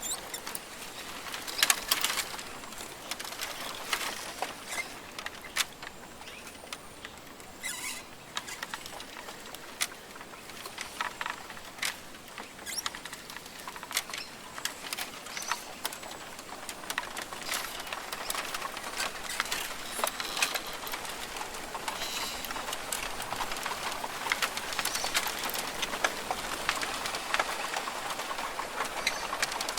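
Rainforest ambience: a steady hiss with many irregular sharp ticks and pattering, and occasional short, faint bird calls.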